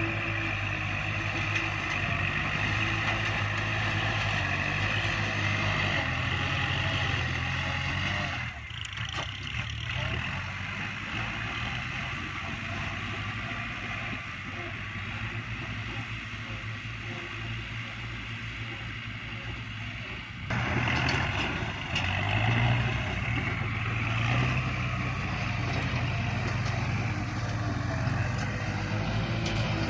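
Kubota tractor's diesel engine running hard while pushing soil. It drops off about eight seconds in, runs quieter for a while, then comes back up loud about twenty seconds in.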